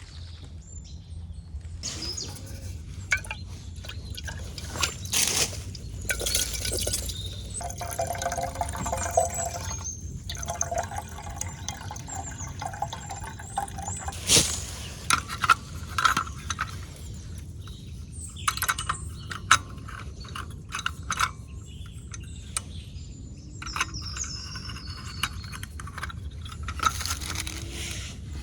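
Liquid pouring and splashing, with repeated clinks and knocks of vessels or utensils.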